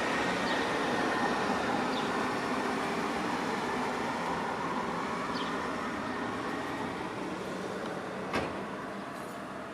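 Steady noise of a passing motor vehicle or train, slowly fading, with one sharp click about eight seconds in.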